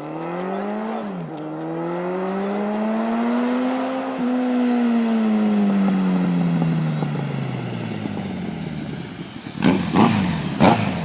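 Honda CB1300 inline-four with an aftermarket Delkevic 350 mm muffler, the exhaust note rising under acceleration. The pitch drops sharply about a second in as it shifts up, then climbs again to its loudest around four seconds in. After that the pitch and level fall away gradually. Near the end come three short, sharp, loud bursts.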